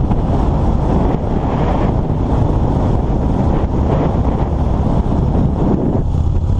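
Wind buffeting the camera microphone on a moving motorcycle, over the engine's steady low running.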